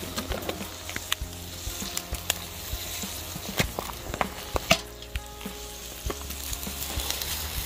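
Food sizzling and frying in a Dutch oven, with sharp clicks and knocks of stirring against the pot; the two loudest knocks come at about three and a half and four and a half seconds in.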